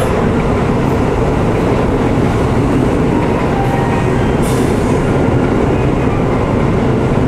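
Steady, loud running noise of an N700S Shinkansen standing at the platform before departure, with a brief high hiss about four and a half seconds in.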